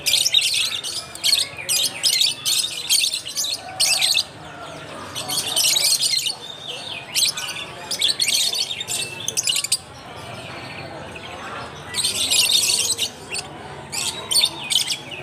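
Many caged lovebirds giving shrill, chattering calls in dense bursts, with a short lull about two-thirds of the way through before the calling picks up again.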